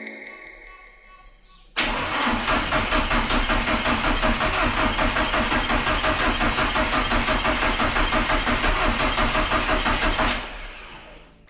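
Volkswagen 1.9 TDI diesel engine turning over on the starter motor, an even rhythmic cranking of about six or seven beats a second that starts suddenly about two seconds in and stops after some eight seconds.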